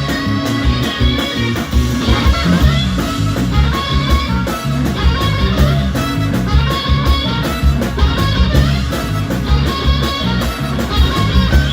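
Live blues band playing an instrumental passage: electric guitar over bass and drums with a steady swinging beat.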